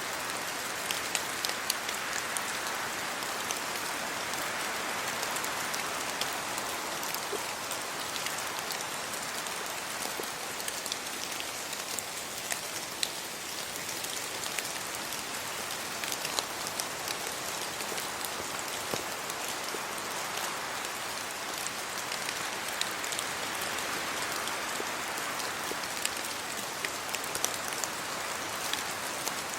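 Steady rain falling on trees and leaves, with scattered sharp drip ticks. The rushing rises and eases slowly a couple of times.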